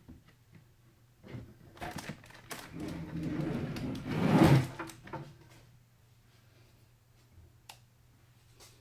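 Hands handling computer parts during a PC build: a few clicks and knocks, then a rustling scrape that swells for a few seconds and stops about five seconds in, with two light clicks near the end.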